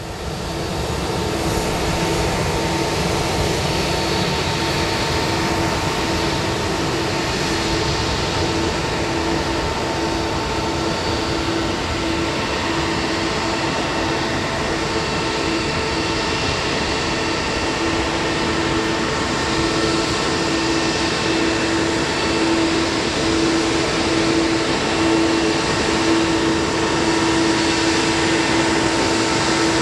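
Steady cabin noise inside a Boeing 777-300 airliner: a constant rush of engine and air-conditioning noise with a low hum that pulses gently.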